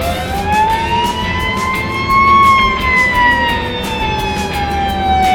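Fire truck siren wailing: one slow rise in pitch over about two seconds, then a long slow fall, over steady low road noise.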